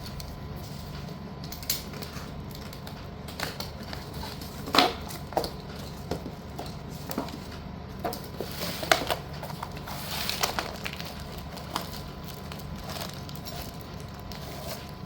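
Hard slate bars being handled: irregular clicks and light knocks as the pieces tap against each other, a few of them louder.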